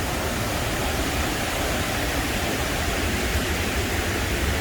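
Steady rush of a waterfall running strong and full after heavy rain.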